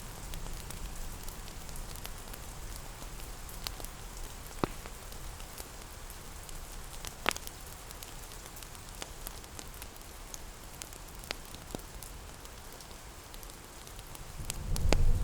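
Steady rain hiss mixed with the scattered snaps and pops of a crackling wood fire, one or two pops standing out louder. A low rumble of thunder starts to build near the end.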